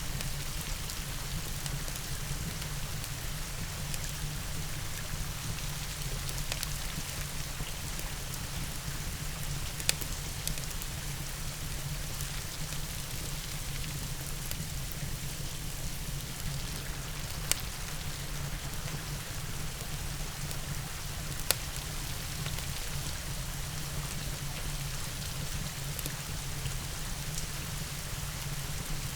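Steady rain falling, mixed with a crackling wood fire that gives three sharp pops.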